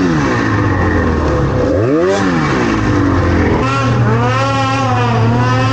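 Snowmobile engine revving, its pitch rising and falling, with one sharp rev about two seconds in, then running at a steadier pitch from a little past the middle.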